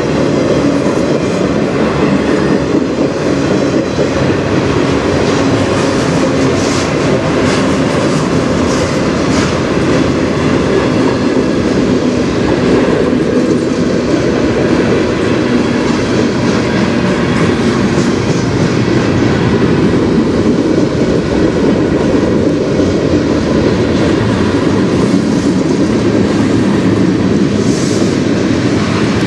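Freight train cars rolling past: a steady, loud din of steel wheels on the rails, with a brief higher-pitched burst near the end.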